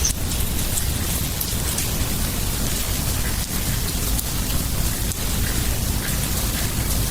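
Steady outdoor hiss with a dense patter of tiny crackles and a low rumble underneath, like rain or wind in the trees.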